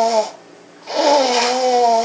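A drawn-out, pitched, voice-like sound effect with a slightly wavering, falling tone, played twice in exactly the same way, the second time starting about a second in.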